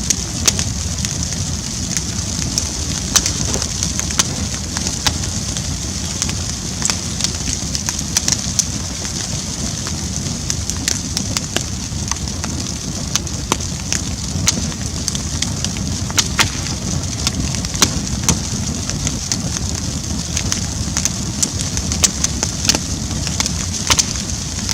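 Bonfire burning: a steady rush of flames with frequent sharp crackles and pops scattered irregularly throughout.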